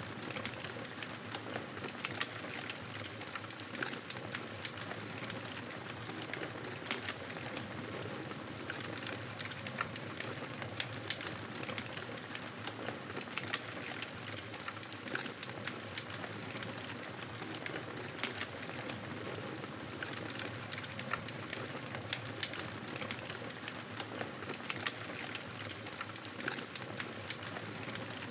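Wood fire in a fireplace crackling steadily: a constant hiss with frequent small, irregular pops and snaps.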